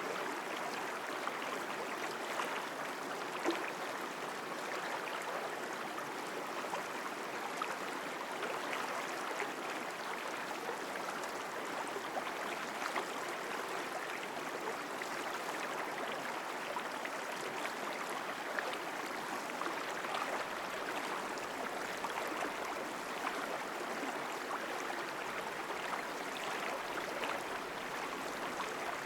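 Mountain stream flowing strongly, a steady rush of water with small splashes scattered through it.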